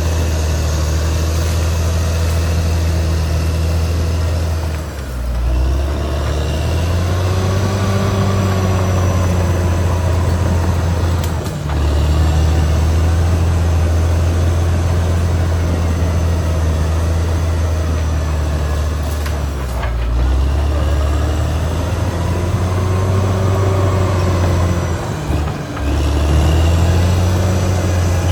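Caterpillar D6R XL bulldozer's diesel engine running steadily under load. Its note dips briefly four times and then recovers.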